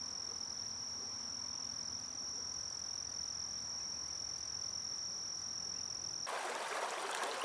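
A steady, high-pitched insect trill over a low background hum. About six seconds in it cuts off abruptly and gives way to the hiss of running water.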